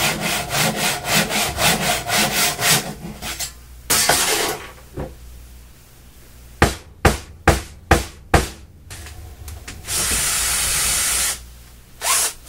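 Workshop hand-tool work: quick back-and-forth rasping strokes like sawing wood, then a run of about six sharp knocks, then an even rushing noise for over a second near the end.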